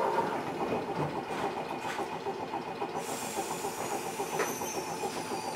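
Eizan Electric Railway Deo 700 series electric railcar running between stations, heard from inside the car: a steady rumble of wheels on rail. About three seconds in, a thin high whine sets in and slowly falls in pitch.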